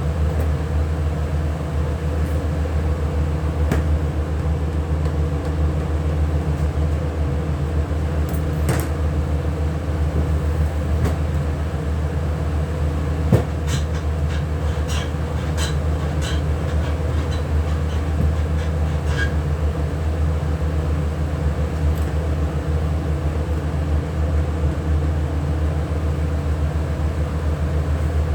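A machine running steadily with a low, even hum, with scattered clicks and light knocks over it, the sharpest about halfway through.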